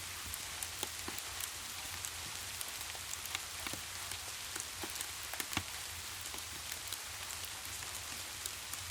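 Steady rain falling, a constant hiss with many scattered sharp drop ticks at irregular moments.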